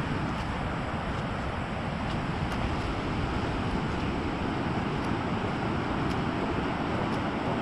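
Big waves breaking on a sand beach, a steady rushing wash of surf, with wind buffeting the microphone.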